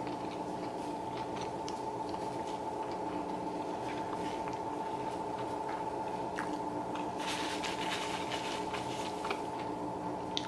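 Close-up chewing of a mouthful of breakfast wrap: wet, squishy mouth sounds and small clicks, busiest about seven to nine seconds in, over a steady hum.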